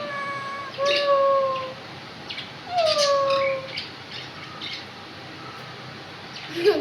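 A pet talking bird making three drawn-out, whistle-like calls, the third sliding down in pitch, with a few faint clicks between them; after about four seconds it goes quieter.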